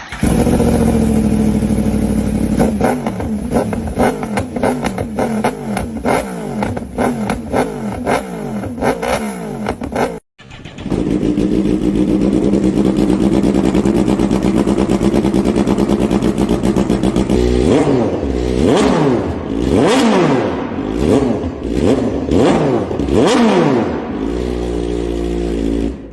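Two superbikes' inline-four engines, a Yamaha YZF-R1M and a Honda CBR1000RR, revved one after the other. The first is blipped in quick repeated revs. After a sudden cut about ten seconds in, the second idles steadily, then is revved several times and drops back to idle near the end.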